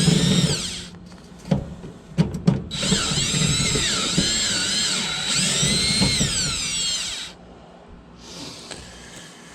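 Power drill set to clutch mode, backing out the screws on a furnace vent motor housing. Its motor whine rises and falls in a short burst, then runs about four seconds with the pitch shifting, with a few clicks in between.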